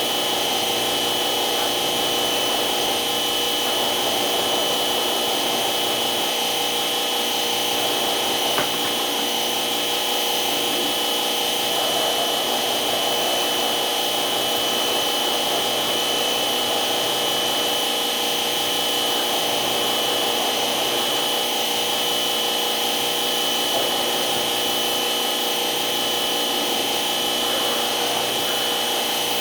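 Steady machine noise running without a break, with a constant high-pitched whine over it.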